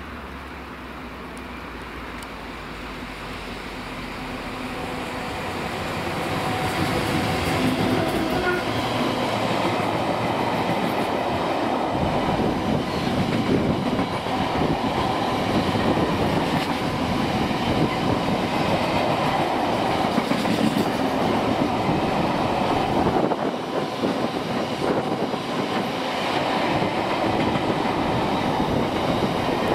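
Class 59 diesel locomotive hauling empty stone wagons. Its low engine rumble builds as it approaches, and after about six seconds the empty wagons pass close by with a loud, steady rumble and clickety-clack of wheels over the rail joints.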